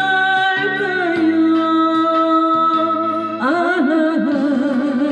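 A song: a singer holds the last note of a sung line over a steady backing accompaniment, and about three and a half seconds in a new melodic line with wavering pitch comes in.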